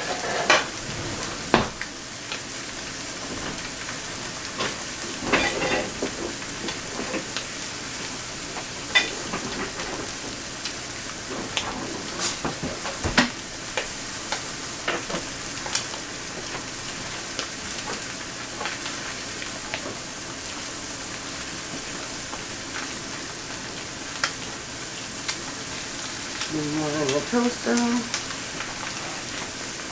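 Sausage patties and eggs frying in skillets, a steady sizzle with scattered sharp clicks of a metal spatula against the pan.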